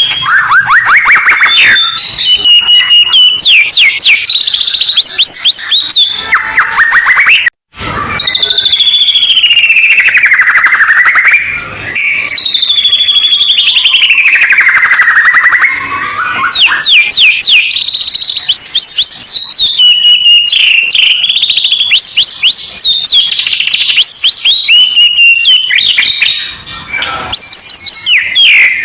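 Loud, continuous songbird song played as a tutor track for shamas: rapid trills alternating with long falling and rising whistled phrases. It breaks off for an instant about seven and a half seconds in.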